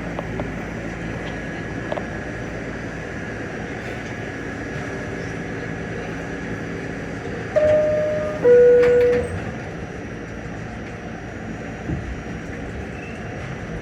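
Steady rumble of an R68 subway car, broken about halfway through by a loud two-note falling chime, each note under a second long, typical of the door-closing chime.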